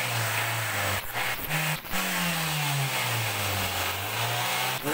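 Daihatsu Gran Max engine running fast with its throttle worked by hand while carburettor cleaner is sprayed into the throttle body. Its speed sags and rises again, the note breaks briefly a few times about a second in, and an even hiss rides over it.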